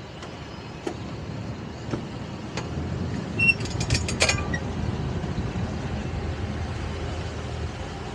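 Towboat engine running steadily under way with a tow behind. A few clicks, and a louder cluster of clicks and knocks, come about three and a half to four and a half seconds in.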